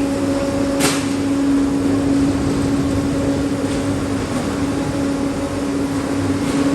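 Heavy machinery running with a loud, steady hum over dense mechanical noise, with one short sharp hiss about a second in.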